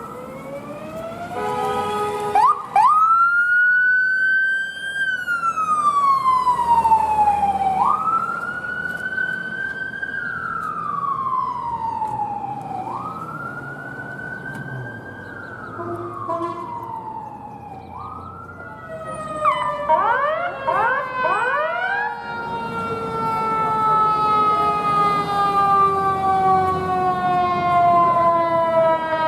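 Emergency vehicle siren wailing, each cycle rising quickly and falling slowly, about every five seconds. Later comes a burst of quick rising chirps, then a long, slowly falling tone of several pitches together.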